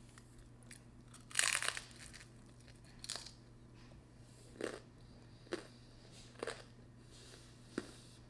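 A person chewing pizza crust close to the microphone: one louder crunchy noise about a second and a half in, then a handful of short wet mouth clicks and smacks about a second apart.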